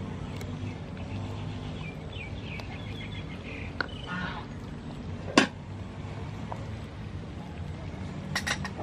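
Birds chirping in short repeated phrases over a steady low rumble, with a single sharp knock a little past halfway and a few small clicks near the end.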